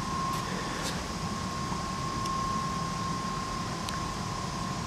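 Steady hum and hiss of a running fan, with a thin constant whine above it and a few faint ticks.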